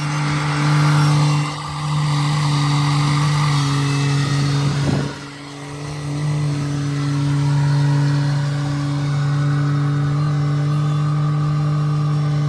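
An engine running steadily at a constant speed, with a brief drop in loudness about five seconds in.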